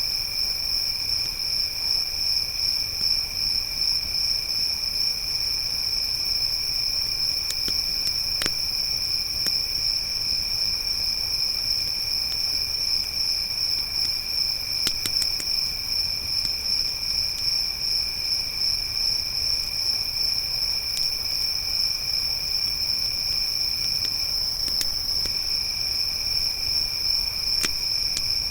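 Crickets trilling steadily in two pitches, a strong high one and a weaker lower one, with a few sharp crackles from a campfire, the clearest about 8 seconds in, around 15 seconds and near the end.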